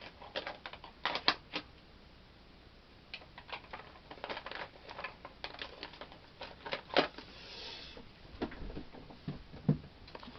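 Irregular clicks and clacks of plastic ink pad cases and other craft supplies being picked up, handled and set down on a desk, with a brief scrape partway through.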